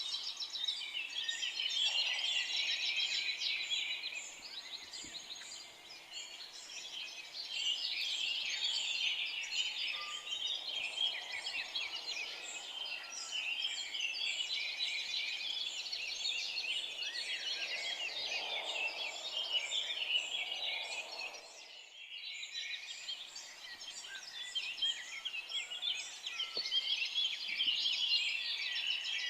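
A dense chorus of many small songbirds chirping and twittering at once, swelling and fading in waves, with a brief break about three-quarters of the way through.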